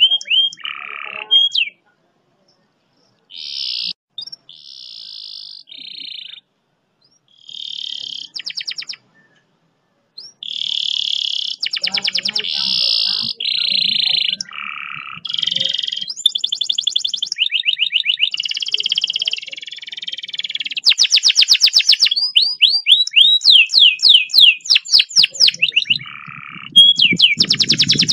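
Domestic canary singing varied phrases, many of them long, fast rolls of rapidly repeated high notes. The first ten seconds come in short bursts broken by silent gaps, and the song then runs without a break.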